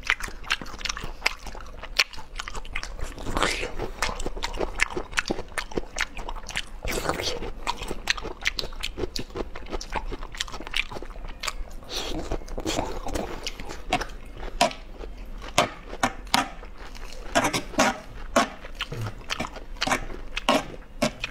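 A person biting and chewing food close to the microphone: many short, sharp, irregular mouth clicks and bites.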